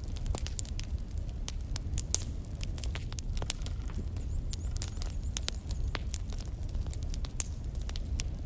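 Logs burning in a fireplace: irregular sharp crackles and pops over a steady low rumble of the flames.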